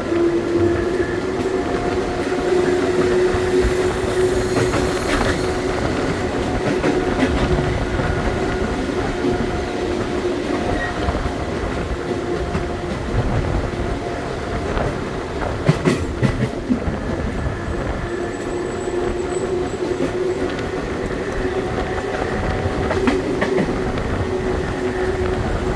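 Série 900 metro electric multiple unit running on the line, with a steady hum over the rumble of wheels on rail and a short cluster of clicks from the track about two-thirds of the way through.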